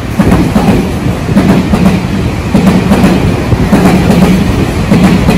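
Electric commuter train running along the platform at close range, its wheels clattering over the rail joints in a steady, loud rhythm.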